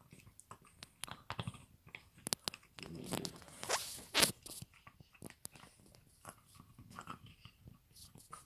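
French bulldog puppy chewing on a brush: irregular crunching and gnawing clicks, loudest about three to four seconds in.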